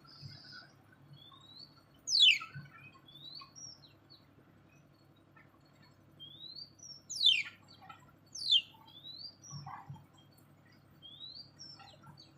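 Birds calling: short rising chirps repeat throughout, and three loud calls sweep sharply downward in pitch, about two seconds in, about seven seconds in and again a second later.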